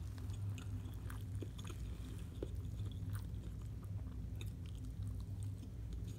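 Close-miked chewing of a soft shrimp po' boy sandwich: wet mouth clicks and smacks scattered throughout, not a hard crunch, since the air-fried shrimp is no longer crispy. A steady low hum sits underneath.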